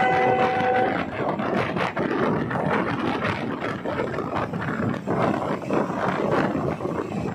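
A diesel railcar's horn, which ends about a second in, then the train running on with a loud rushing noise and rapid irregular rattling.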